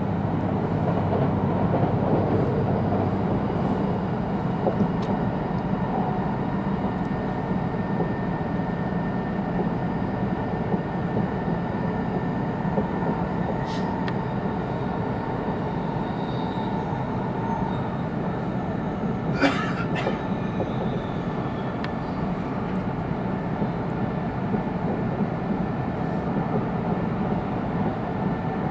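Interior running noise of an E2 series Shinkansen car: a steady rumble of the train in motion, with a sharp click about 14 seconds in and a brief burst of louder noise about 19 seconds in.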